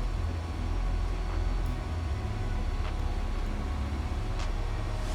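Vehicle on the move: a steady low rumble of engine and road noise.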